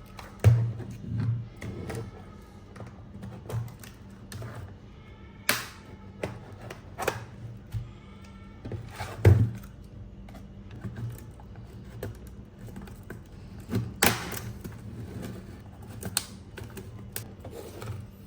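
Irregular plastic clicks and knocks from an A4Tech FBX50C wireless keyboard being handled and worked on by hand, with a few louder knocks: one about half a second in, one about 9 seconds in and one about 14 seconds in.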